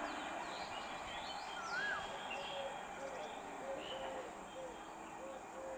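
Birds calling over a steady background hiss: a rising-and-falling whistle about two seconds in, scattered short high chirps, and a run of short repeated calls about twice a second in the second half.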